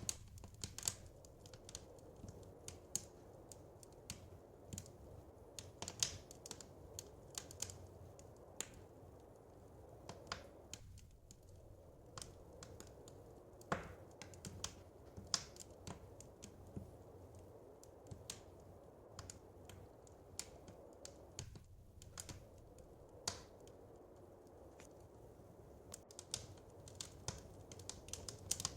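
Wood fire crackling in a fireplace: irregular sharp pops and snaps, a few much louder than the rest, over a low steady background.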